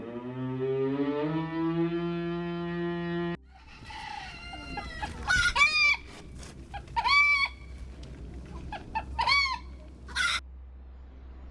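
A long, low, steady animal call that cuts off abruptly about three seconds in. Then chickens clucking and calling in a string of short calls that rise and fall in pitch.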